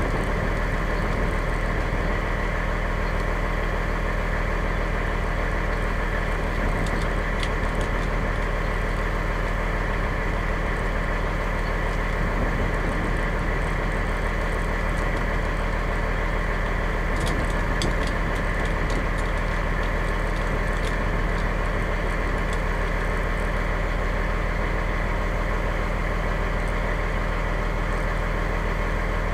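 Fire engine's motor running steadily at an even pitch, with a few faint clicks.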